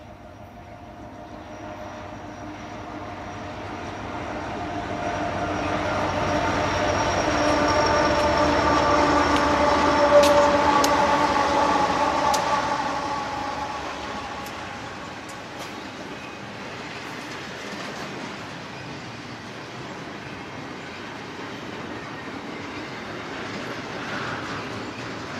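Long double-stack intermodal train of well cars rolling past, with a steady rumble and wheel noise and clicks of wheels over rail joints. It builds to its loudest about ten seconds in, with steady ringing tones over it, then eases off.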